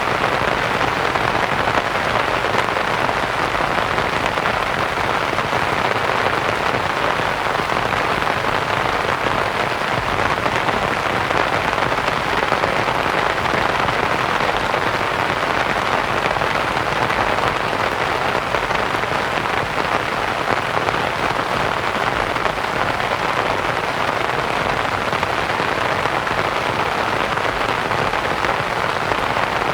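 Steady rain falling on a canvas tent, mixed with a continuous white-noise hiss.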